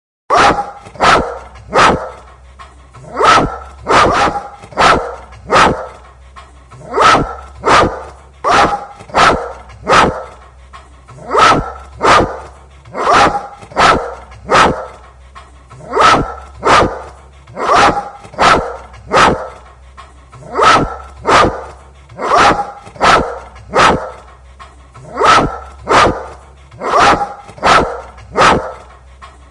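A dog barking over and over, about one bark a second in short runs of two to four, with a faint low hum underneath.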